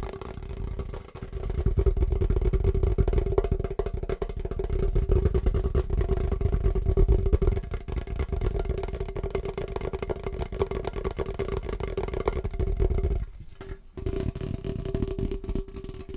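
Very fast, hard tapping with the fingers on a household object, a dense stream of taps over a steady low ringing tone. A brief break about thirteen seconds in, then the tapping resumes.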